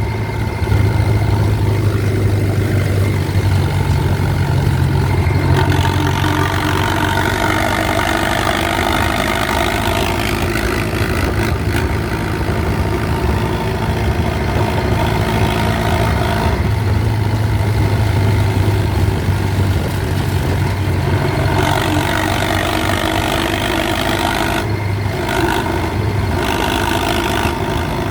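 HMT 6522 DI tractor's diesel engine running under load while pulling a fully loaded trolley. Its note shifts in pitch and strength a few times.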